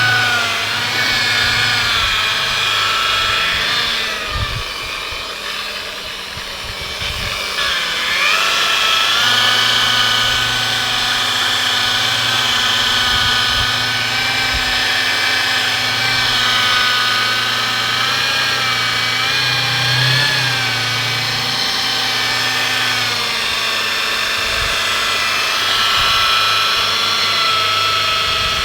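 Electric car polisher running with a steady high whine, its pitch dipping a few times as it is worked over the paint with rubbing compound to cut out sanding marks. The sound drops back for a few seconds about four seconds in.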